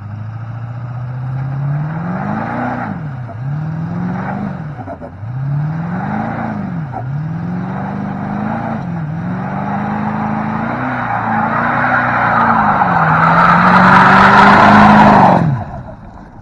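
Duramax V8 turbodiesel pickup doing a burnout: the engine revs hard over and over, its pitch climbing and dropping about every one and a half to two seconds. Tyre-spinning noise builds toward the end under a long, held high rev, then everything cuts off suddenly near the end.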